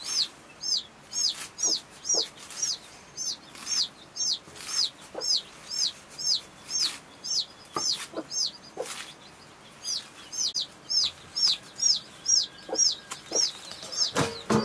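A small bird chirping over and over, one high, downward-arching note about two to three times a second, pausing for a couple of seconds midway. Beneath it, a few soft knocks of a large knife chopping leafy greens against the hand.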